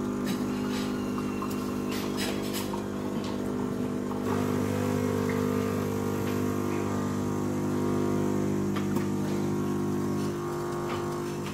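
Automatic coffee machine running with a steady motor hum and a few clicks in the first seconds. The hum steps louder and deeper about four seconds in and shifts again near the end.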